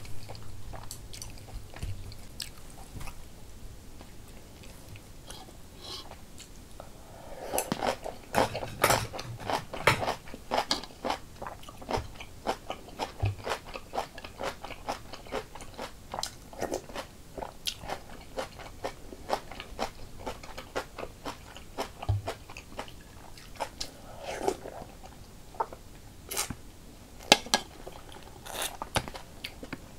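Close-up eating sounds: a person chewing kimchi and rice cake soup, wet crunching and mouth clicks that are sparse at first and come thick and fast from about seven seconds in.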